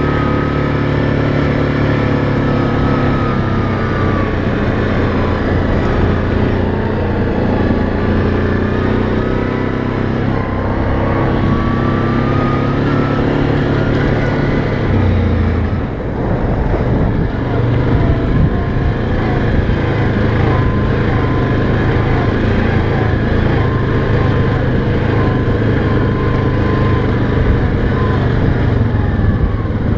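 ATV engine running under way on a trail ride, its pitch rising and falling with the throttle. It eases off briefly about halfway through, then picks up again.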